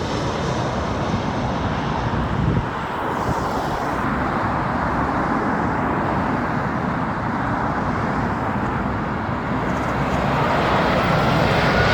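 Jet engines of a British Airways airliner landing at Heathrow, a steady rushing rumble as it passes, with a faint rising whine near the end.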